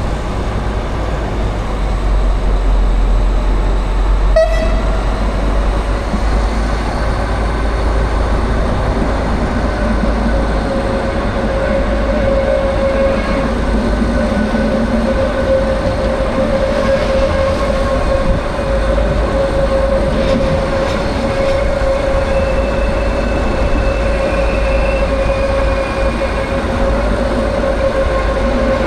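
Brohltalbahn narrow-gauge train running, with a steady high whine that sets in after a sharp click about four seconds in and holds through the rest.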